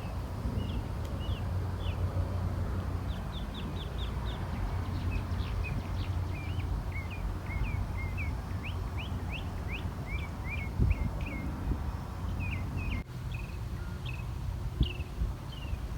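Small birds chirping: a steady run of short, quick chirps over a low rumble.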